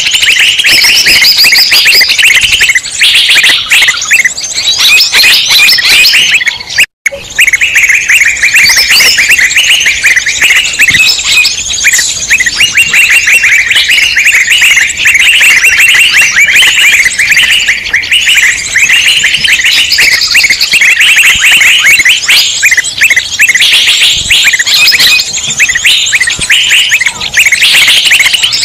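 Bird-lure recording of a noisy chorus of many small birds chattering and chirping over one another, dense and loud. The chorus cuts out abruptly for a split second about a quarter of the way in, then carries on.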